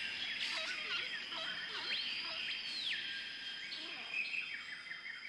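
Birds chirping and calling in short swooping notes over a steady thin high-pitched tone.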